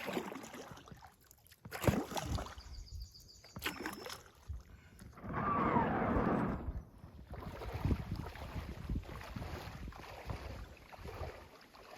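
Paddling an inflatable kayak: water splashing and a few knocks, with a louder rushing splash lasting nearly two seconds about five seconds in.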